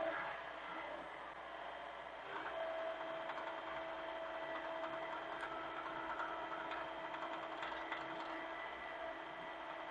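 Hitachi mini excavator running steadily, its engine and hydraulics giving a continuous mechanical drone with a held whine.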